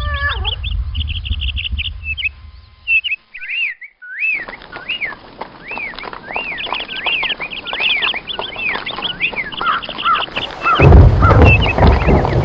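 Birds chirping: quick high chirps, then a run of arched whistled calls repeating about twice a second. The sound drops out briefly about three to four seconds in, and a low rumble joins near the end.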